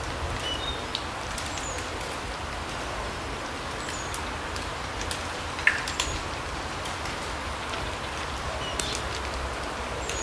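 Forest ambience: a steady soft hiss with a low rumble underneath, and small birds giving brief, high, thin calls now and then. Scattered light ticks, with one sharper snap a little past the middle.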